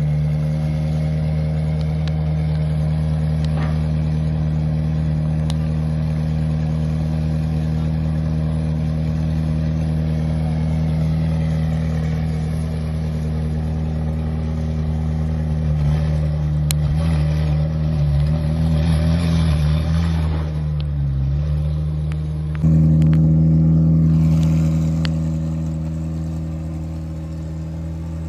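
A car engine running steadily at idle, its pitch wavering briefly about two-thirds of the way through. It then cuts abruptly to a louder engine sound that slowly eases off.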